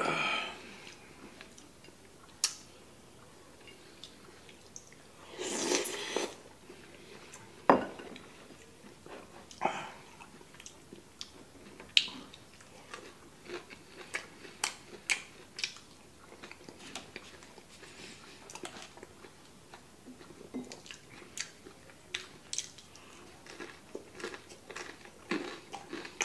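Close-miked eating: chewing and crunching of food, with scattered clicks of chopsticks and bowls against the table and one sharp knock about eight seconds in.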